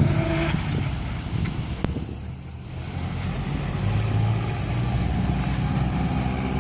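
Engine of a classic car running, dropping a little about two seconds in and getting louder again from about four seconds.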